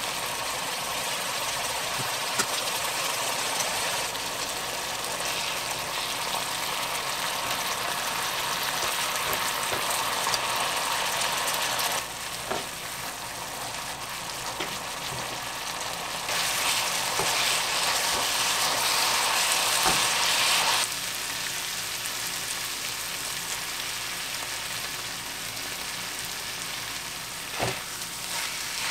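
Bulgogi beef, vegetables and glass noodles sizzling in a frying pan as they are stir-fried, with a few clicks of chopsticks and tongs against the pan.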